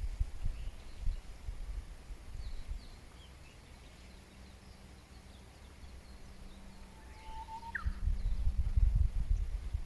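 Birds calling outdoors: faint, scattered short chirps, then one longer whistled note that ends in an upward sweep about seven seconds in. A low rumble sits under the start and comes back from about eight seconds.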